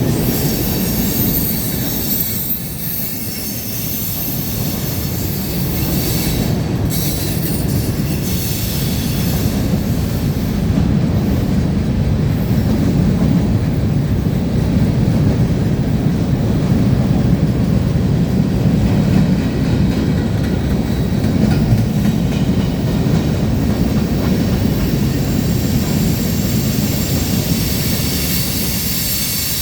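Freight train cars rolling past: a loud, steady rumble of steel wheels on the rails with a thin high squeal above it.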